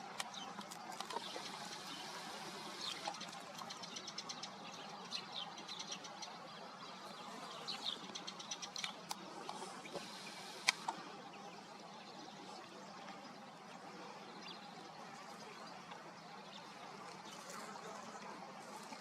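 Birds over a lake: many short, high chirps and ticks in quick runs through the first half, thinning out later, over a faint steady background hiss, with one sharp click about eleven seconds in.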